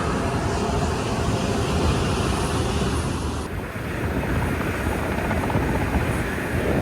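Aircraft in a flying display, its engine and rotor or jet noise loud and steady, with an abrupt change in the sound about three and a half seconds in.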